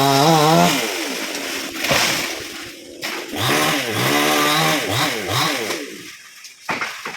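Chainsaw engine revved up and down, its pitch rising and falling several times before dying away about six seconds in. A few short knocks follow near the end.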